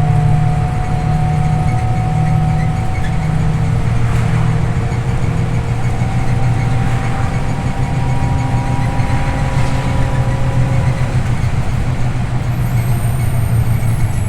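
Scania OmniLink I city bus under way, heard from inside: a steady low engine drone with faint whining tones from the drivetrain. A brief high squeal comes in near the end.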